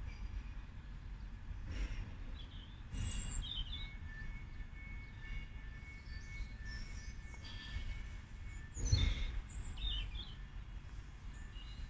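Small birds chirping now and then over a low outdoor rumble, with a faint steady whine for a few seconds in the middle and a soft thump about nine seconds in.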